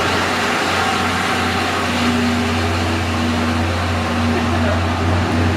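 Steady low mechanical hum over a constant rushing noise, with a faint higher tone joining about two seconds in.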